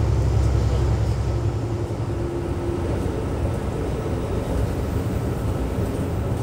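Steady low rumble of a LINT 54 diesel railcar under way, heard from inside the passenger compartment: engine and wheels on the track. A faint tone rises out of it briefly about two seconds in.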